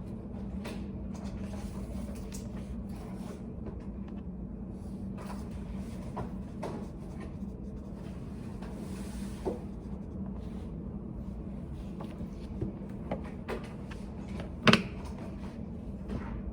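Study cafe room tone: a steady low hum with scattered small clicks and taps, and one sharper knock near the end.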